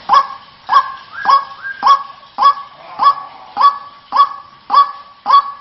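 White-breasted waterhen calling: a loud, short upward-swooping "kru-ak" note, repeated steadily at nearly two a second. This is the call used as a lure for the bird.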